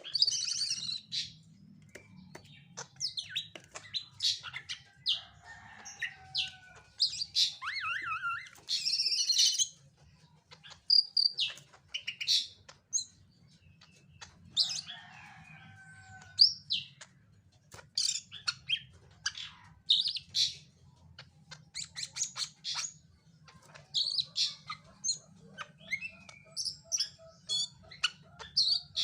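Cucak ijo (greater green leafbird) singing a varied song of short, rapid chirps and whistles, phrase after phrase with short pauses between.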